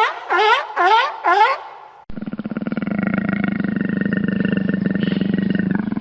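Four short, quickly repeated animal calls, each sweeping in pitch, in the first two seconds; then an abrupt switch to a long, rough, steady growl from a large animal lasting about four seconds.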